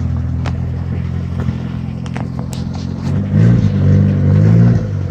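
A car engine idling, revved up briefly about three seconds in and dropping back near the end, with scattered clicks and knocks around it.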